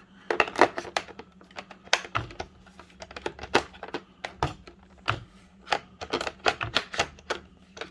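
Hard plastic clicking and knocking, irregular clusters of sharp clicks, as a part is worked into a robot vacuum's charging base while finding the way it goes in and locks in place.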